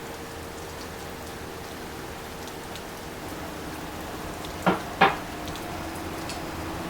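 Steady rain falling, with two sharp knocks about a third of a second apart a little past the middle.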